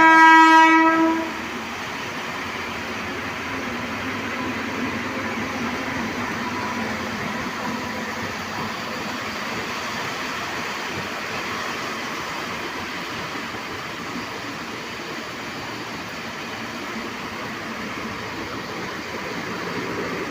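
Train horn sounding loudly, cutting off just over a second in. It is followed by the steady rushing noise of a train running at speed in heavy rain.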